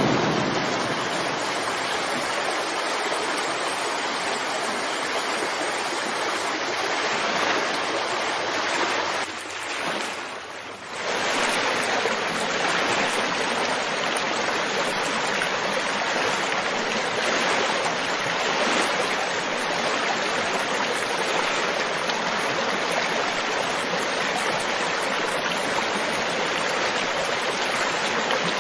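Flowing stream, a steady rushing of water, with a short dip in loudness about ten seconds in.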